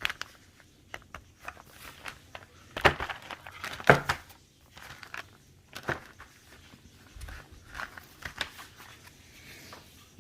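Plastic packaging of firework packs being handled: irregular crinkling and rustling with small knocks, loudest about three to four seconds in.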